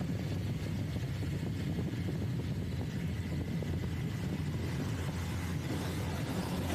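Motorcycle engine running steadily while riding, with a steady low hum and a rushing haze of wind and road noise.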